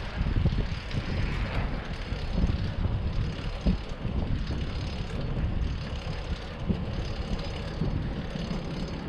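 City street traffic noise heard from a moving bicycle, an uneven low rumble with wind buffeting the microphone.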